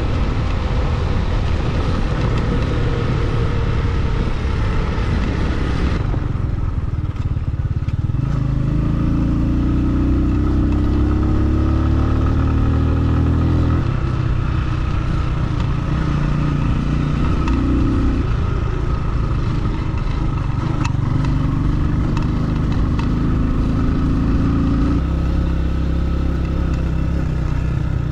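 Motorcycle being ridden: a loud rushing noise at first that drops away about six seconds in, then the engine is heard pulling up in pitch and shifting gears several times.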